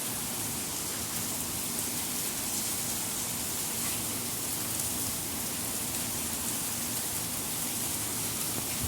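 Steady rain falling, an even hiss of rain on surfaces with no breaks.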